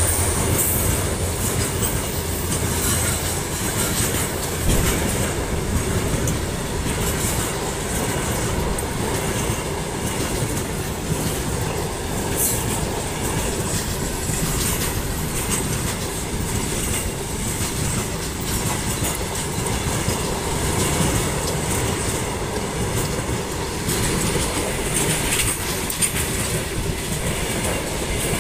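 A long freight train of steel open-top box wagons rolling past close by at speed: a steady rumble with wheels clacking rhythmically over the rail joints. A low hum fades out in the first few seconds.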